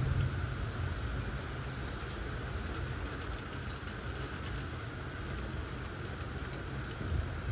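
Steady rain from a thundershower, an even hiss with scattered faint drop ticks over a continuous low rumble.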